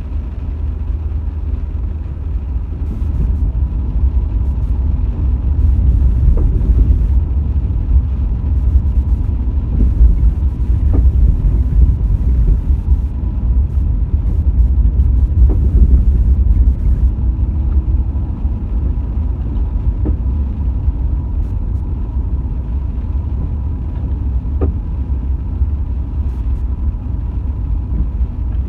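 Steady low road and engine rumble of a car being driven, with a few faint knocks every several seconds.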